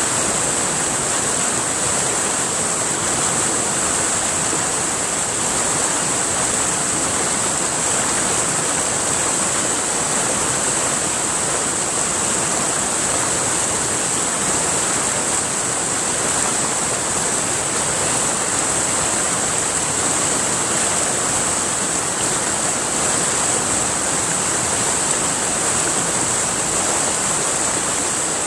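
River water flowing steadily, an even rushing with no breaks, with a steady high-pitched hiss over it.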